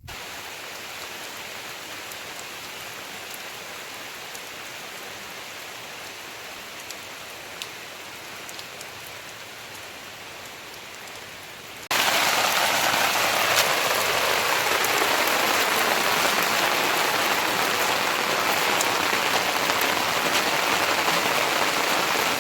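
Heavy rain falling in a steady hiss, with scattered drips ticking. About halfway through it cuts suddenly to much louder, closer rain.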